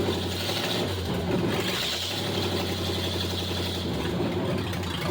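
Chevrolet 305 small-block V8 of a 1978 El Camino idling steadily with no exhaust fitted, running open without pipes after a new oil pump install.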